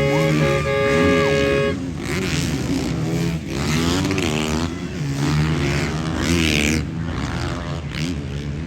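Motocross bike engines revving on the track, their pitch rising and falling again and again as riders accelerate and shift. A steady held tone sounds over them at the start and stops sharply about two seconds in.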